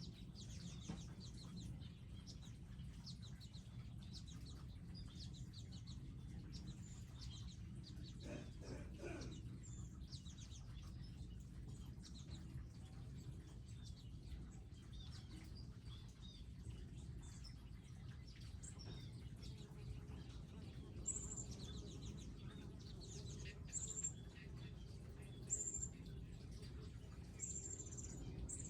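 Small wild birds chirping and calling at garden feeders, many short high chirps overlapping, with a few louder, sharper high notes in the last third. A steady low hum lies underneath.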